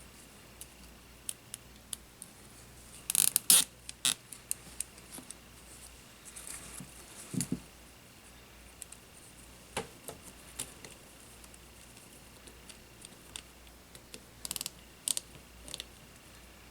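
Irregular small clicks, taps and clatter of hand tools and small parts being handled on a workbench during a drone frame repair, loudest in a short clatter about three seconds in and again in a quick run of clicks near the end.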